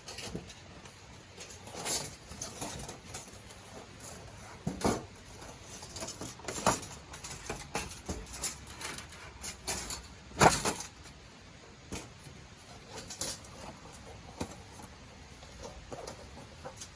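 Thin stainless steel plates of a folding fire pit clinking and knocking as they are handled and fitted together, in scattered irregular strokes with the loudest knock about ten seconds in.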